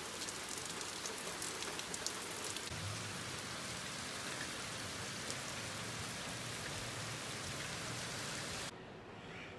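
Heavy rain pouring down: a steady, even hiss with scattered drip ticks in the first few seconds. It drops suddenly to a fainter hiss about a second before the end.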